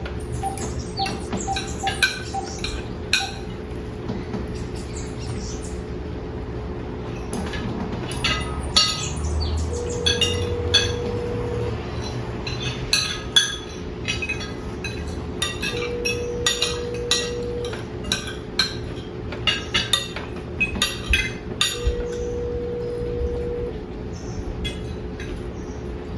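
A phone call's ringback tone sounds three times, about two seconds each and about six seconds apart, while the call waits to be answered. Many short sharp clinks and a steady low hum run under it.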